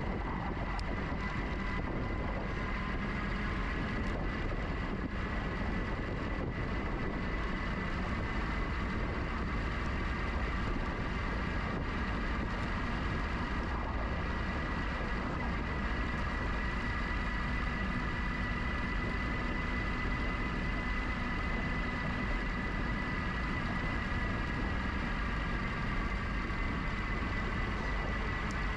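Riding on a GoCycle GX electric bike: a steady high whine of several tones, typical of the electric drive motor under way, over low wind and road rumble on the microphone.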